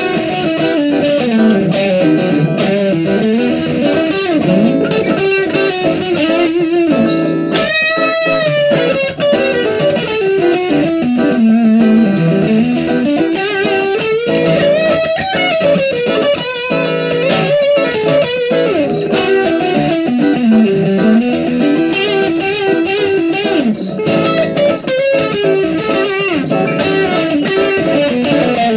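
Guitar music: a melody that slides and bends in pitch over a steady accompaniment.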